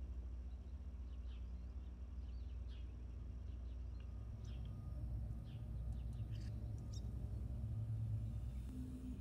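Small birds chirping faintly: a scatter of short, high calls, more of them about halfway through, over a steady low rumble.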